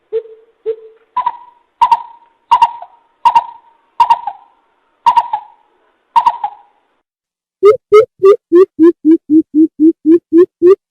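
Greater coucal calling: deep hoots about two-thirds of a second apart, the first two lower and the following ones higher. After a short pause near the end comes a fast run of hoots, about four a second.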